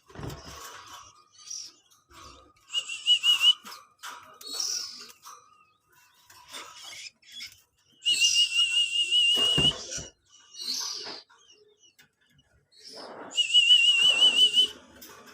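Three loud trilling whistles, each about a second long, with a fast warble in pitch, at about 3 s, 8 s and 13 s in. Short high chirps come between them.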